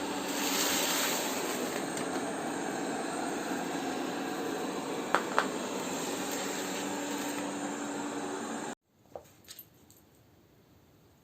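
Polaris PVCR 3200 IQ Home Aqua robot vacuum cleaner running with a steady hiss and faint hum, with two sharp clicks about five seconds in. The noise cuts off abruptly near the end, leaving a quiet room with a few faint clicks.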